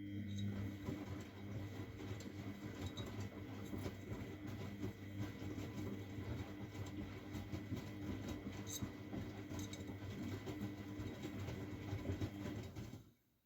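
Miele Novotronic W912 washing machine turning its drum during a wash: a steady motor hum with laundry and water sloshing and small clicks. It stops suddenly near the end as the drum pauses.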